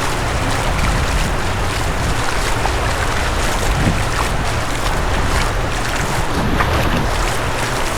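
Steady wind buffeting the microphone with a heavy low rumble, over the wash of surf on the beach.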